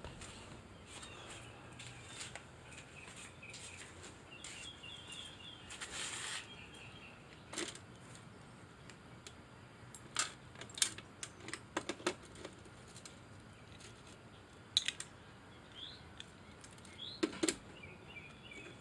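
Sparse, irregular light clicks and taps over a faint background hiss, with a small bird chirping in short runs about four to six seconds in and again near the end.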